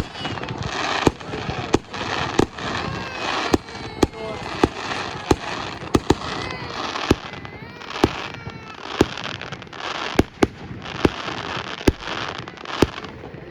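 Fireworks display: a rapid run of sharp bangs, roughly two a second, over a continuous crackling hiss.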